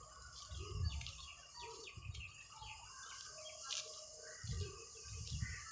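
Small birds chirping faintly, a string of short quick falling chirps, with a few soft low thumps.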